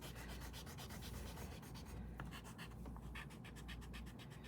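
Faint, scratchy strokes of a drawing tool coloring in, rubbing rapidly back and forth several times a second.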